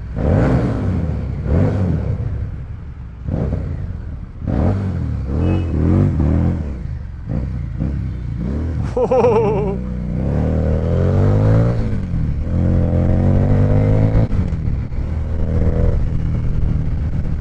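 Harley-Davidson Street 750's 749 cc V-twin engine, revved repeatedly while riding: several quick climbs and drops in pitch in the first half, then running on more steadily with a wavering pitch.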